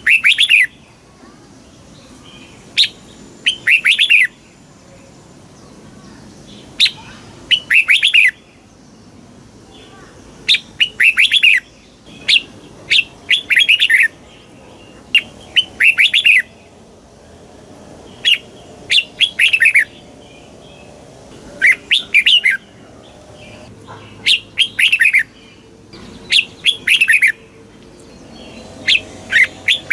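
Red-whiskered bulbul singing: short, loud phrases of a few quick falling notes, repeated every two to four seconds, with a faint steady background noise between them.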